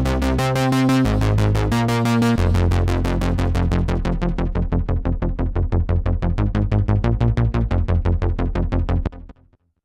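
Korg Prologue analog synthesizer playing a custom patch: sustained chords over a bass line, turning about two and a half seconds in into a fast, even pulsing sequence. It stops about nine seconds in.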